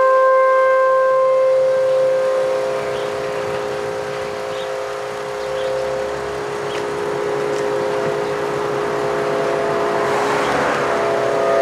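Federal Signal Model 5 outdoor warning siren sounding a steady, unchanging chord of tones, its loudness slowly dipping and swelling. Near the end a rush of noise rises under it.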